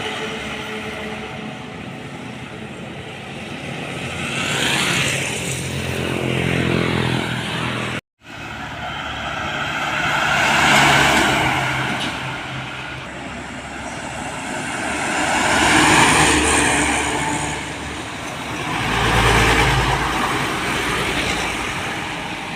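Road traffic passing by: trucks and other vehicles go past one after another, each one's engine and tyre noise swelling and then fading, about four passes in all. The sound cuts out for a moment about a third of the way in.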